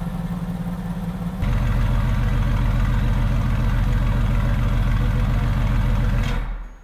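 Mercedes-AMG GT S's 4.0-litre twin-turbo V8 idling steadily through its exhaust, with a deep, even rumble. The sound gets louder and heavier about a second and a half in, then fades out near the end.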